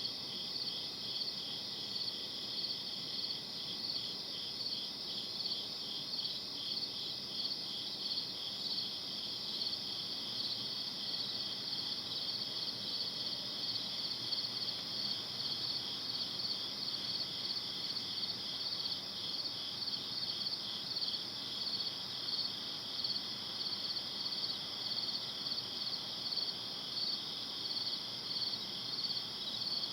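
Night chorus of crickets chirping steadily: at least two insects at slightly different pitches, the higher one pulsing about twice a second and the lower one faster, over a faint low hiss.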